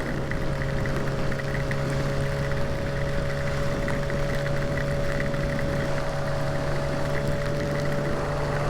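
Kawasaki ZX-6R inline-four engine held at a steady, unchanging speed while cruising, under a constant rush of wind noise.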